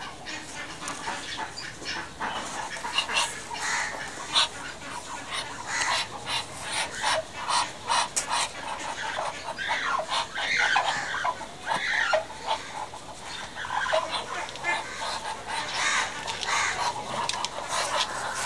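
Birds calling in many short chirps and clicks, one after another.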